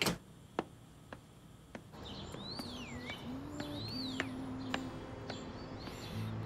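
A sharp knock at the start and a few fainter ticks, then, from about two seconds in, a bird whistling two slurred calls that rise and fall, over soft background music with long held notes.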